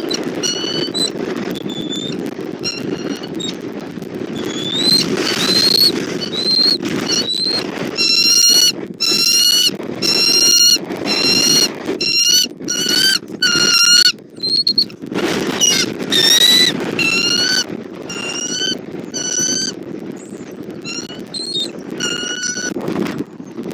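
Bald eagles calling: series of short, high, piping chirps that come thick and fast in the middle stretch. Strong wind rumbles on the microphone throughout.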